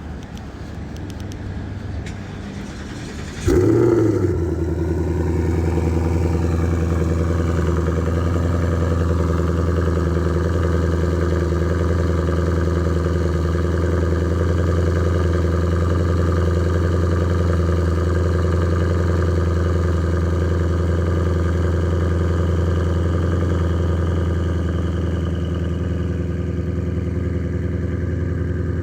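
Twin-turbo Ford Coyote 5.0 V8 on a cold start. The starter cranks for about three and a half seconds, then the engine catches with a loud flare of revs and settles into a steady idle. The idle eases slightly in level near the end.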